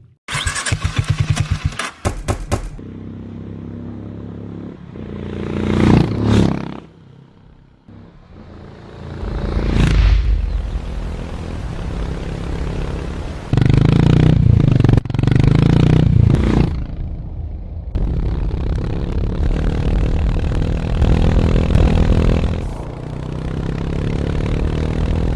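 Single-cylinder motorcycle engine firing in a quick run of sharp beats, then idling and being revved several times, the exhaust note swelling and falling back.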